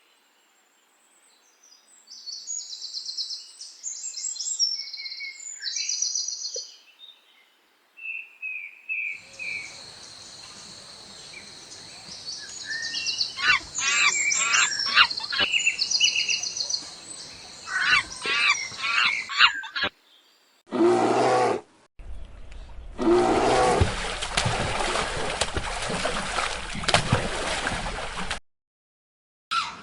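A string of separately cut animal-sound clips, mostly high-pitched bird chirping and twittering in short repeated phrases, broken by sudden cuts. It ends with a short loud call and then a longer, louder, noisy animal sound.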